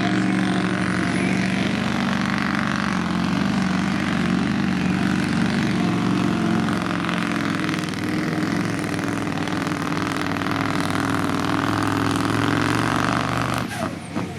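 Supersport-class pulling truck's diesel engine running flat out under heavy load as it drags the pulling sled down the track. The engine note is steady and drops suddenly near the end.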